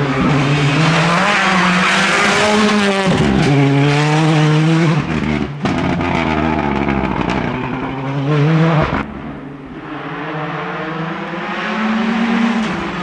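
Rally car engine at high revs, its pitch climbing and dropping in steps through gear changes, with a sharp break about five and a half seconds in. Around nine seconds the engine note falls and quietens, then builds again toward the end.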